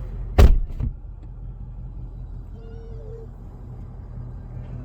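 A car door slamming shut with one loud thump about half a second in, followed by a lighter knock, then a steady low hum.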